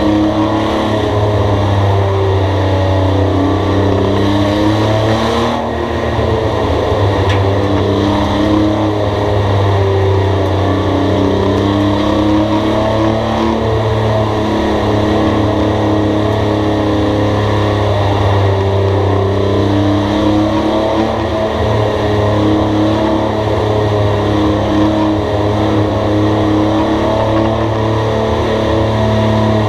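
Race car engine running hard on the track, its pitch rising and falling continuously as it revs up and backs off.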